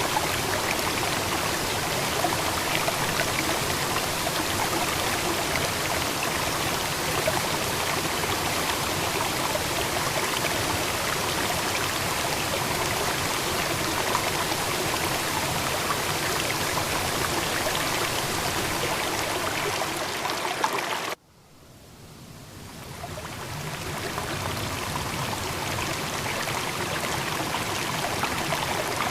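Steady rush of flowing water. It cuts out suddenly about 21 seconds in and fades back up over a few seconds.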